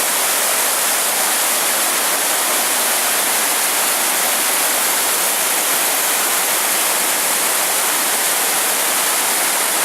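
Waterfall, a steady, loud rush of heavy falling water.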